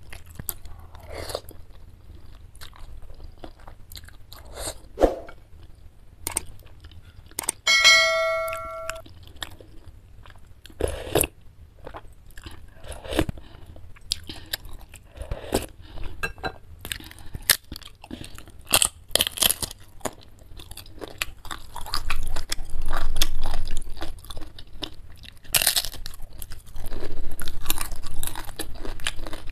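Close-miked chewing and crunching of spicy chicken noodles and crisp fried wonton skins, in many short, crackly bites that get louder and busier in the second half. A brief ringing tone sounds once, about eight seconds in.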